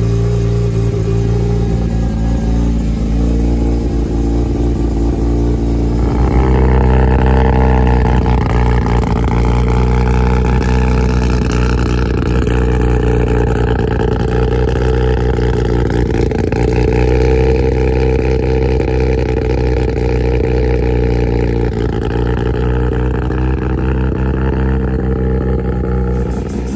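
Mazda RX-7 FD engine running at a steady speed. About six seconds in it gets louder and brighter and holds there, then eases back a little near the end.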